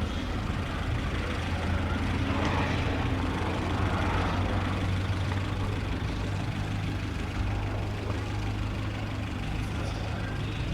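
Steady low engine hum, with no rise or fall in pitch, under a background of noise.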